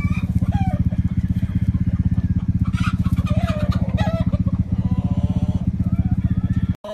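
A small engine running steadily with a rapid, even low pulse, with chickens calling faintly over it. It cuts off abruptly near the end.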